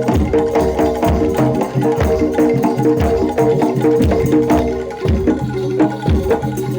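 Live jaranan dor ensemble music: Javanese drums beating a steady, driving rhythm over ringing pitched gamelan notes.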